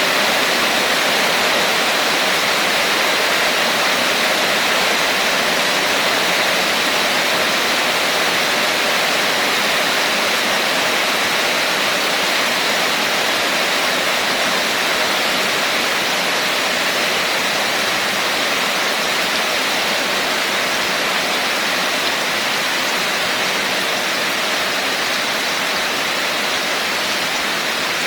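Rain falling steadily, an even hiss with no single drops or other events standing out.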